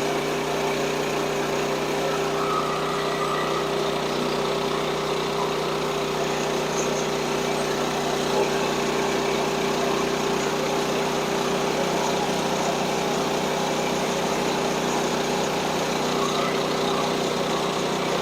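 Small engine of a portable band sawmill running steadily at an even pitch.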